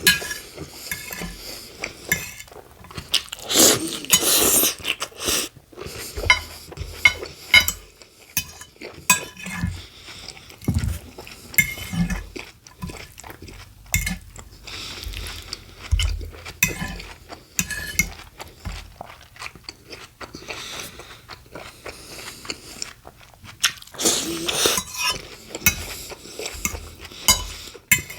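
Close-miked eating of a BLT sandwich: wet chewing and crunching of bacon, iceberg lettuce and Italian bread, in many short crisp bites and chews, with a few louder crunchy stretches.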